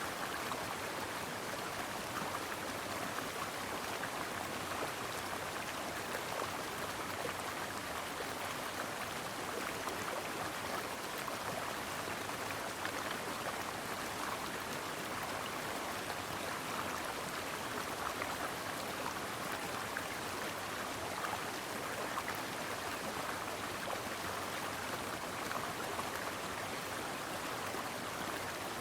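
Stream water running over rocks, a steady babbling and rushing.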